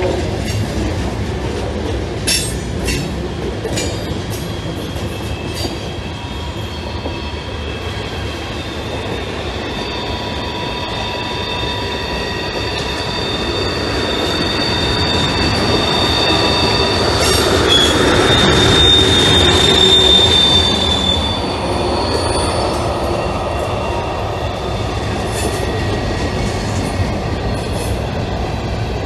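Freight cars of a CSX manifest train rolling past close by: a steady rumble of steel wheels on rail, with a few sharp clicks near the start. High, steady wheel-squeal tones join about a third of the way in and are loudest about two-thirds through.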